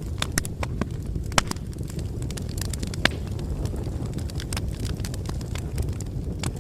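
Wood bonfire crackling: a steady low rumble of flames with frequent irregular sharp pops, two louder snaps about a second and a half and three seconds in.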